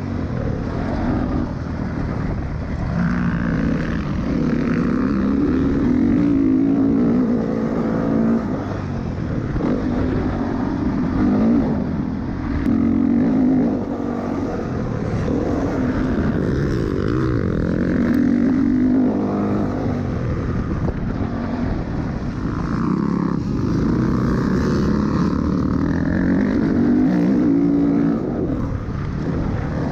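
Dirt bike engine being ridden around a motocross track. Its pitch climbs and drops back again and again as the throttle is opened and closed.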